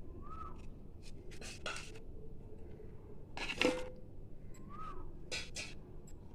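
A few short clinks and taps as ingredients are added to a mixer-grinder jar. The loudest comes about three and a half seconds in and has a brief ring.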